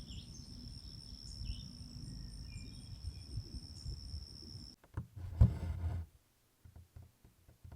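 A cricket's steady high trill with a few short bird chirps, cut off abruptly about five seconds in; then a couple of soft low thumps and a brief rustle, and near silence.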